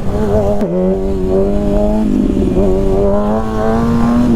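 Stunt motorcycle's engine running under way at fairly steady revs, its pitch dipping briefly early on and creeping up toward the end, over a low rumble of wind and road noise.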